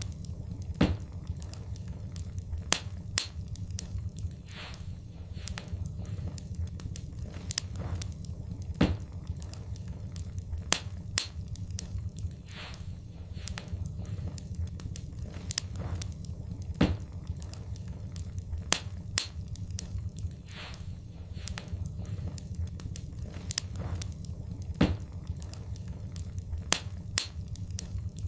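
Wood fire burning in a fireplace: a steady low rumble with irregular sharp crackles and pops, and a louder snap every few seconds.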